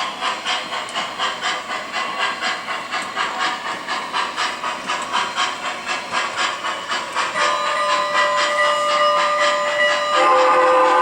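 O scale model steam locomotive's electronic sound system chuffing at a steady beat, about three chuffs a second. A whistle comes in about seven seconds in and sounds louder and fuller from about ten seconds in.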